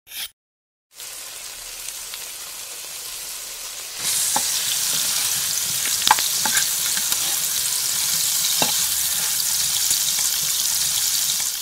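Frying pan sizzling steadily, the hiss growing louder about four seconds in, with a few sharp clicks of a metal spatula against the pan.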